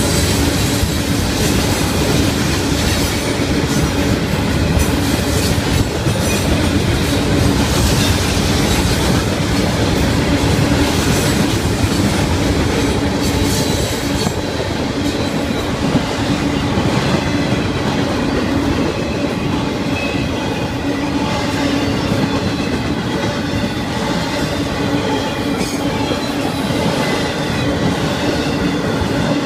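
Freight cars of a Florida East Coast Railway train rolling past close by: a steady, loud rumble of steel wheels on rail, with repeated clacking as the wheels cross rail joints.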